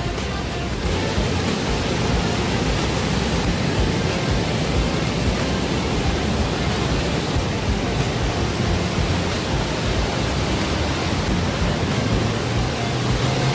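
Steady rush of water pouring down the Agua Azul cascades.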